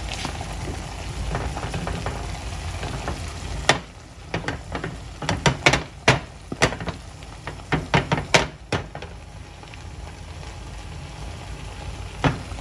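Beaten egg frying in a pan: a steady sizzle, then from about four seconds in a run of sharp, irregular pops and crackles for several seconds, with a couple more near the end.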